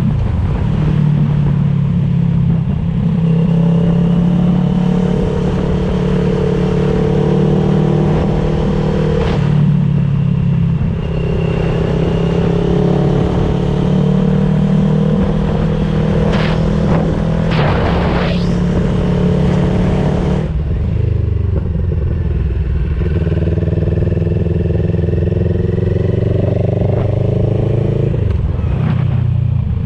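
CFMOTO 700CL-X's parallel-twin engine running through an IXRACE DC1 carbon aftermarket exhaust while being ridden. The engine note rises and falls with the throttle and shifts clearly twice.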